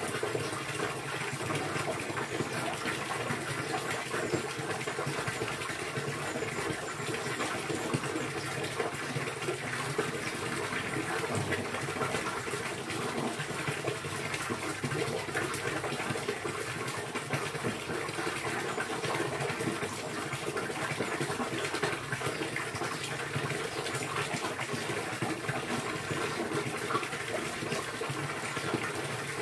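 Steady rushing, splashing water, even and unbroken throughout.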